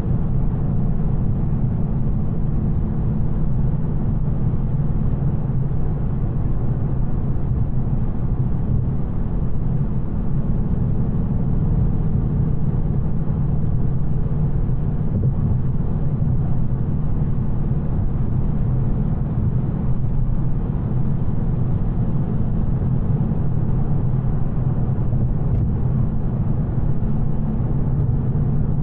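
2024 Mustang GT's 5.0-litre V8 running at a steady cruise with stock exhaust, a low even drone with road noise and no revving.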